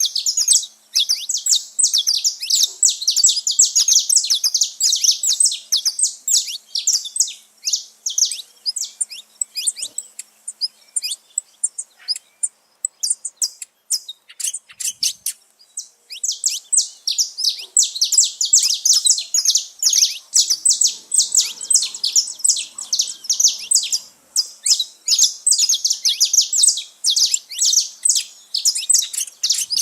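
Saffron finches chirping and singing together, a dense stream of rapid high chirps. The chirping thins out to scattered notes in the middle for a few seconds, then grows thick again.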